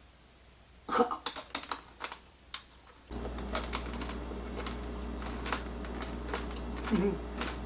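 Crunching and chewing a no-bake bird's nest treat of chow mein noodles coated in chocolate and peanut butter: irregular crisp crunches. A steady low hum comes in suddenly about three seconds in.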